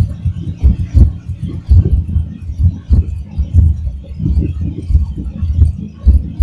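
Nissan VG33E V6 engine, fitted with Isky 258 Mega hydraulic cams, running in a 200SX race car with uneven, pulsing low exhaust beats and light mechanical rattles over them.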